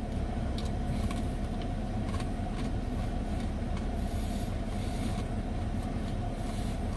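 Chewing of a baked Fuji apple crisp, with a few faint crunches, over a steady low drone in a parked car's cabin.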